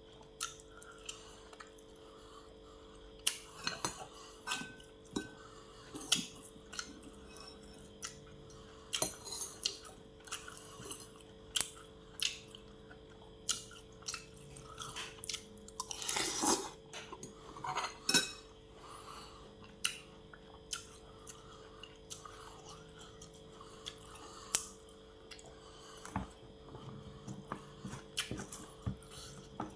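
Eating at a table: cutlery clinking and scraping on a plate at irregular intervals, with chewing in between, over a faint steady hum. One longer, louder noise comes about sixteen seconds in.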